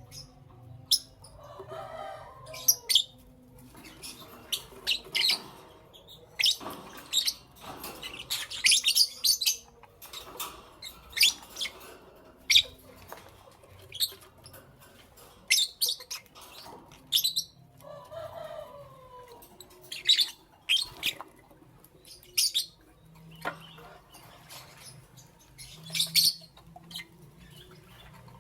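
Lovebirds chirping: many short, shrill chirps in quick, irregular runs.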